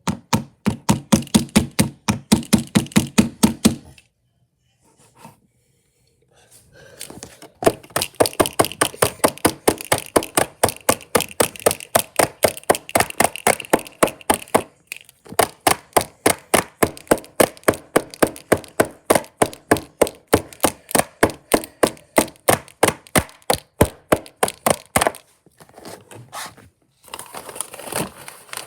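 Sticky homemade slime being kneaded and squished by hand as dye is worked in, making quick rhythmic wet clicks and pops, about four or five a second, with a few short pauses.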